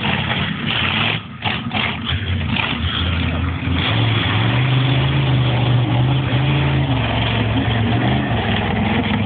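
Large vehicle engine running, revving up about four seconds in, holding a higher steady pitch, then dropping back just after eight seconds.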